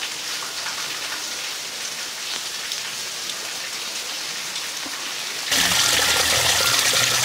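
Steady rain falling on garden foliage. About five and a half seconds in, it gives way abruptly to a louder, denser rush of water.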